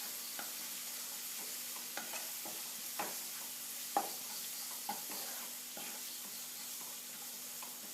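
Onions, ginger-garlic paste and Kashmiri chilli powder sizzling in oil in a pan, with a spatula stirring and tapping against the pan about once a second.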